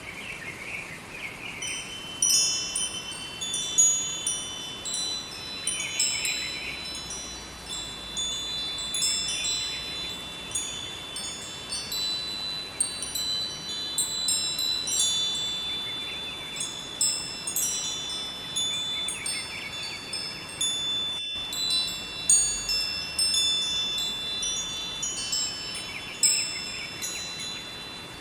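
Wind chimes ringing in irregular clusters of high metallic notes that ring on and fade, over the steady rush of a river.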